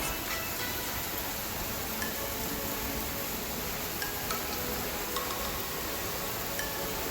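Steady rushing noise of a waterfall, with scattered brief high-pitched tones sounding over it.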